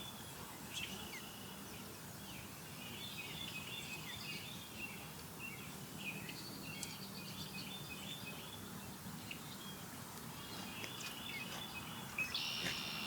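Birds chirping: clusters of short, high notes over a faint steady low hum, with a louder, harsher burst of calls near the end.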